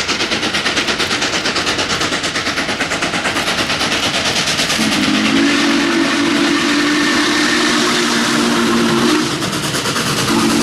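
Steam locomotive working at speed, its exhaust chuffing about five times a second, then sounding its deep chime whistle in a long blast of several notes, broken off briefly and sounded again near the end.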